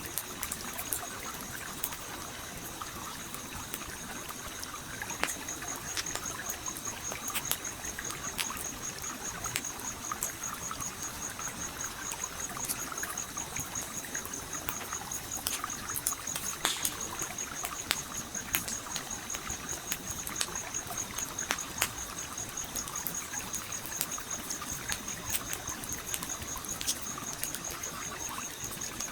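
A campfire crackling with scattered sharp pops over a steadily flowing stream. A high, fast-pulsing trill runs through the mix from about five seconds in.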